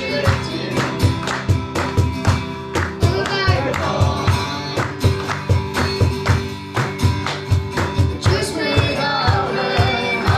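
Live worship band playing a song with a steady drum beat, with singing over it.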